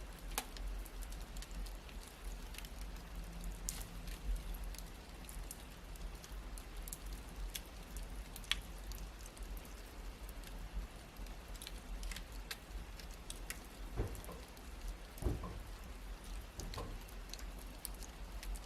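Wood fire in a fireplace crackling: irregular sharp snaps and pops over a low steady rumble, with a couple of louder pops near the end.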